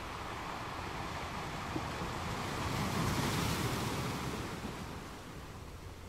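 A rushing noise of wind and water that swells to a peak about three seconds in and then fades.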